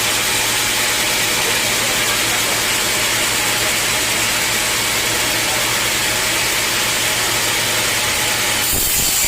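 Sawmill machinery running steadily: a constant motor hum under a loud, even hiss, with a brief shift in the sound near the end.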